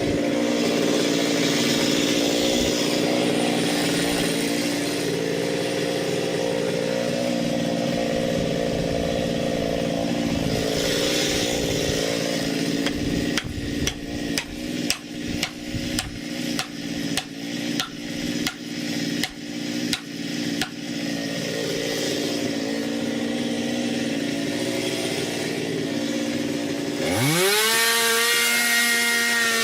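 Small chainsaw running steadily at low revs, with a run of about fifteen sharp knocks, roughly two a second, in the middle. Near the end the saw is throttled up and its pitch jumps and holds high as it starts cutting into the ash trunk.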